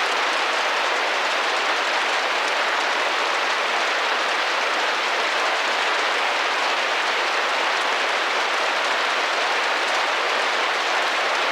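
Rain drumming gently against a window: an even, unbroken patter of many drops.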